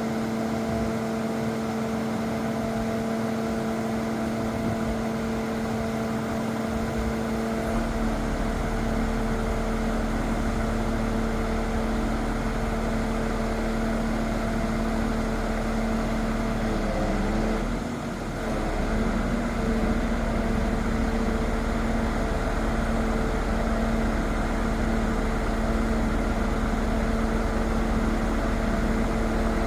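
Scania R500 truck running steadily with a constant hum. A deeper rumble joins about eight seconds in, and the sound dips and wavers briefly about halfway through.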